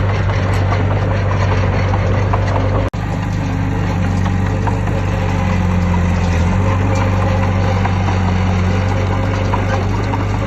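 Heavy diesel engine of earthmoving machinery running steadily, with a strong low engine note; the sound drops out for an instant about three seconds in.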